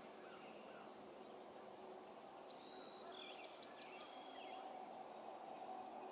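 Faint outdoor ambience with a low steady hum. A songbird sings one short phrase of quick chirps and trills about two and a half seconds in.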